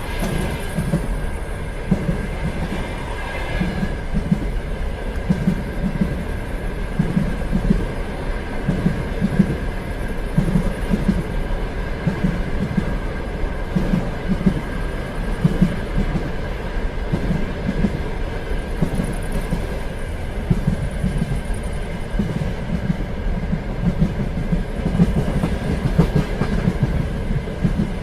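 Train running steadily on rails, its wheels clicking over rail joints in a regular rhythm of paired beats about every second, over a continuous rumble.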